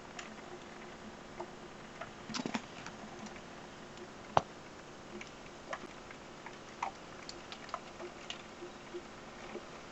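Scattered raindrops striking a hard surface close by, making irregular sharp ticks, with one louder click a little over four seconds in, over a steady faint hiss of rain.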